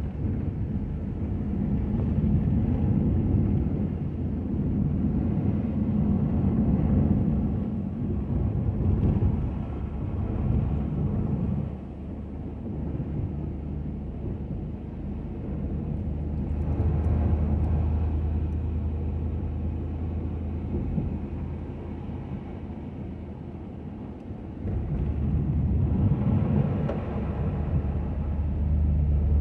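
Ford F-250 pickup truck driving: a steady low engine and road rumble that swells and eases several times as it goes.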